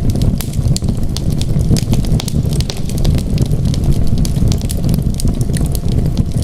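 Wood fire crackling in a fireplace, with frequent sharp, irregular pops and snaps over a steady low rumble.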